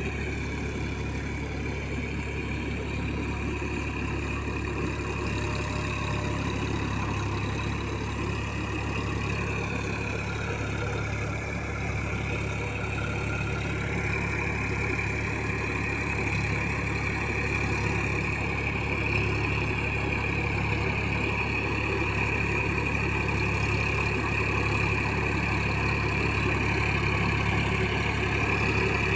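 Massey Ferguson 9000 tractor's diesel engine running steadily. Its note dips for a few seconds about a third of the way in, then picks back up.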